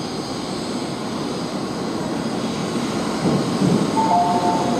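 N700-series Shinkansen train pulling into the station platform, its rumble growing louder from about three seconds in. Two steady high tones begin near the end.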